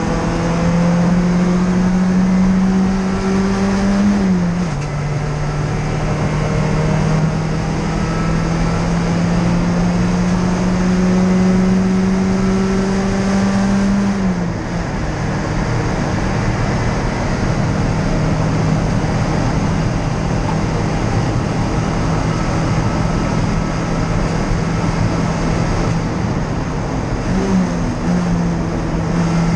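Porsche 944 four-cylinder race engine pulling hard under load, heard inside the stripped-out cabin. The pitch climbs slowly and drops sharply at upshifts about four and fourteen seconds in, then holds steady for a long stretch. A short rev blip comes near the end, over steady road and wind noise.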